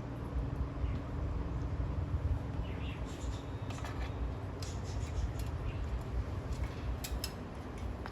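A parakeet's beak nibbling and scraping at a piece of mango: scattered small clicks and scratches, thickest in the second half, over a steady low hum.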